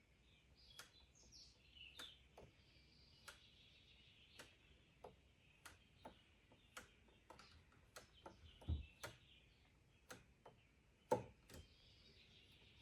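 Near silence with faint, regular ticking about once a second and faint bird-like chirping, broken by two louder knocks, the first about two-thirds of the way in and the second near the end.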